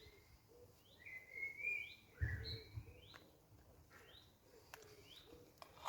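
A songbird calling in woodland: short rising notes repeated about once a second, with a longer wavering whistle in the middle. A dull thump sounds about two seconds in.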